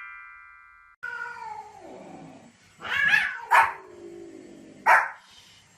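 A dog whining in long falling notes, then giving three sharp barks, the second-to-last and last the loudest. Before it, a chime dies away in the first second.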